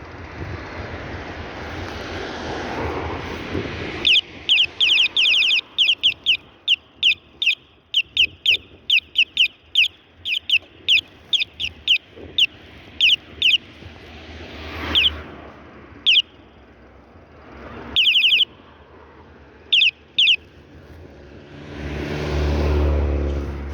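Loud, high-pitched chirping: quick groups of rapid pulses about two a second, thinning to a few scattered chirps after the first half. A passing vehicle's rushing noise comes at the start, and a low engine drone swells near the end.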